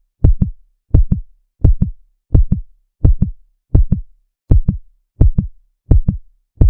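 Heartbeat sound effect: a double thump, lub-dub, repeating steadily about every 0.7 seconds, some 85 beats a minute, with silence between the beats.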